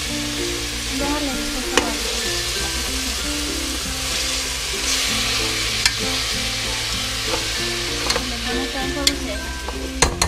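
Chicken pieces sizzling in hot oil with garlic, onion and capsicum in a stainless steel pot, stirred with a metal spoon. The spoon clinks sharply against the pot a few times.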